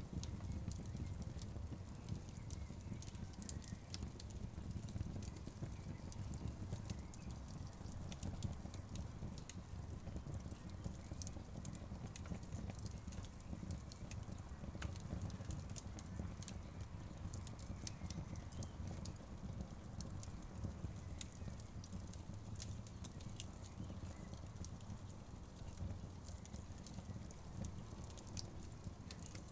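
Wood logs burning in a fireplace, crackling with many scattered sharp pops and snaps over a steady low rumble.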